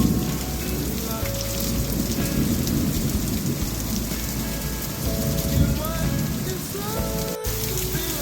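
Heavy rain pouring down in a summer thunderstorm, with a low rumble of thunder underneath.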